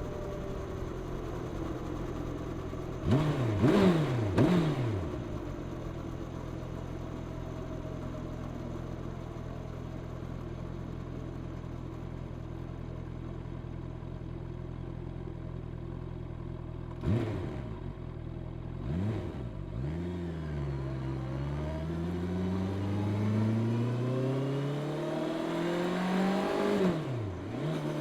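Honda CB650R inline-four through its stock exhaust, running steadily on the road. A few quick revs rise and fall about three seconds in and again past the middle, then the engine pulls with a long steady rise in pitch and drops sharply near the end as it shifts up a gear.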